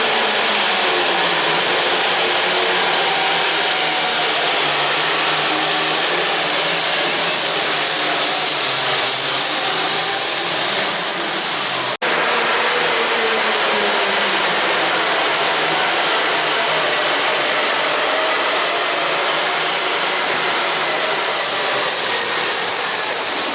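A tractor-pull competitor's engine running at full power under heavy load, loud and steady with a rough, noisy tone, its pitch wavering slightly. The sound breaks off for an instant about halfway through.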